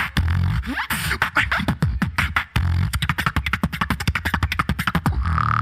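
Solo beatboxer performing into a microphone: a fast stream of vocal clicks and snares over a deep bass hum, with gliding pitched sweeps. Near the end it settles into a held steady tone over the bass.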